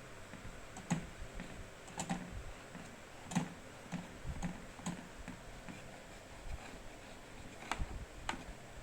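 Scattered light taps and clicks, a dozen or so at irregular intervals, with a few sharper ones standing out.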